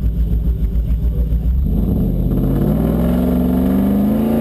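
Powerful car engine heard from inside the cabin, rumbling low at first, then about a second and a half in accelerating hard with its pitch rising steadily.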